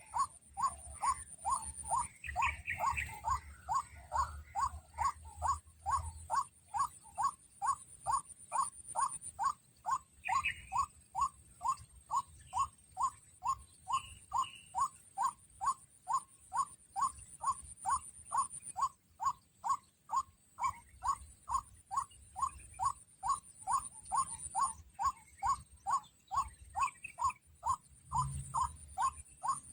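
White-breasted waterhen (kruak) calls: one short note repeated steadily about twice a second, without a break.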